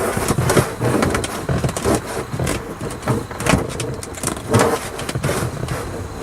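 Irregular rustling, crinkling and knocking of a sheet of sound-deadening mat being handled and pushed up against the inside of a car roof.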